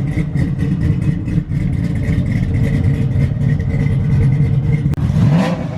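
Supercharged pickup truck's engine running steadily under way, then revving up with a rising pitch near the end. The engine sounds good.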